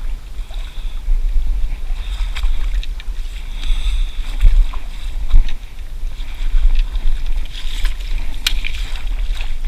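Creek water sloshing and splashing around a hooked smallmouth bass as it is played in close and landed, over a steady low rumble of wind on the microphone, with a few sharp clicks of handling.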